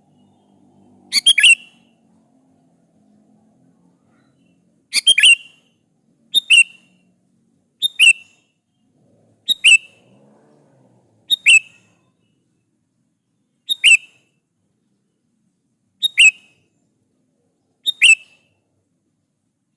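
Sooty-headed bulbul (kutilang) calling: a series of short, sharp call notes repeated nine times at intervals of about one and a half to two and a half seconds.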